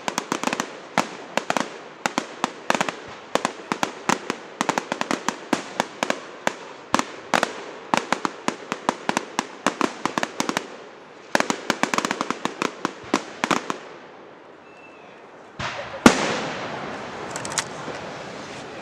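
Fireworks crackling: a rapid, uneven string of sharp cracks for about fourteen seconds. After a brief lull, a louder bang comes about sixteen seconds in, followed by a hissing rush.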